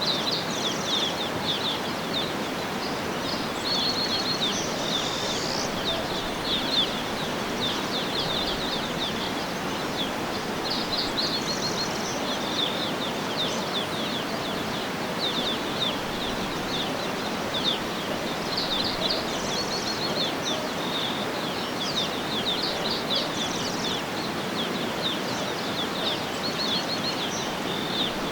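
Small birds chirping and trilling in many short, quick phrases over a steady even hiss of outdoor background noise.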